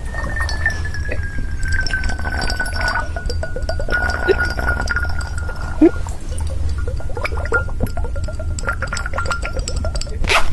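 Wet gurgling and bubbling from an ear-cleaning sound effect, full of small pops and clicks. A thin steady whine runs under it, dropping slightly in pitch over the first couple of seconds and stopping near the end. A short loud rasp comes right at the close.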